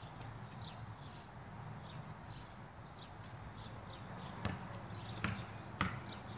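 Small birds chirping over a steady low outdoor hum, with three sharp knocks in quick succession near the end.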